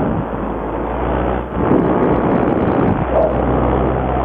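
Fresh Breeze paramotor's Simonini two-stroke engine running steadily under power, mixed with heavy wind rush on the microphone. The engine's steady drone stands out more clearly about three seconds in.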